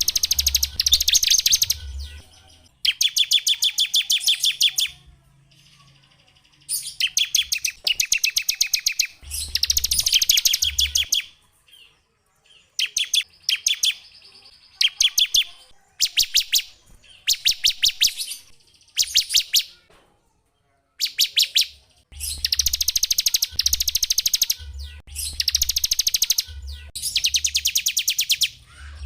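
Small songbirds singing rapid, high-pitched trills in repeated bursts of one to two seconds, with short silent gaps between them.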